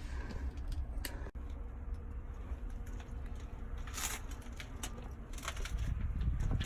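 Footsteps and small knocks inside an old train car: a few faint clicks and crackles, spaced a second or more apart, over a low rumble.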